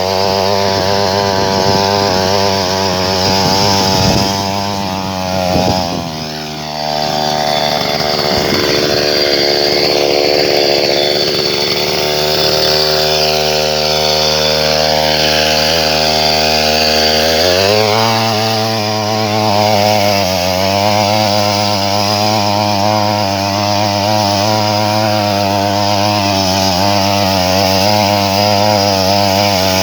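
Small 63cc two-stroke petrol engine of a mini tiller running continuously, with its speed changing around six seconds in and again around seventeen seconds in.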